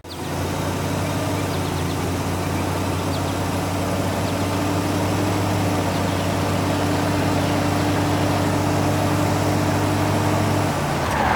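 Heavy construction-machine engine running steadily, a low even hum with a brief whoosh near the end.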